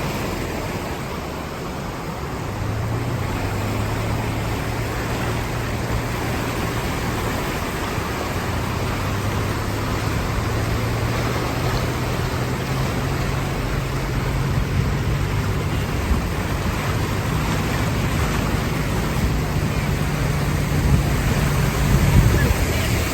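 Heavy rain falling in a steady, even hiss. Under it a low hum comes in a couple of seconds in, rises slowly in pitch and cuts off just before the end.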